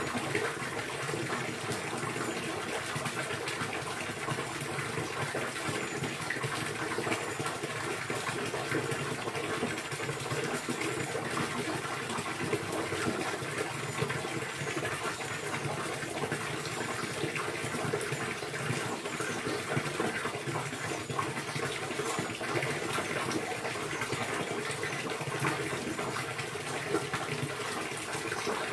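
Steady running water: an even, unbroken rush of splashing water.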